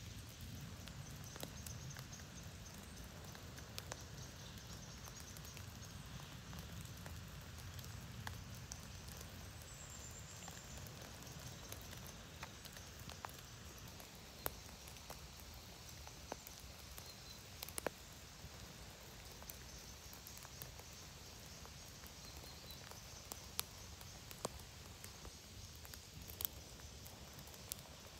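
Steady rain in a forest: scattered single raindrops ticking close by over a low, even background wash.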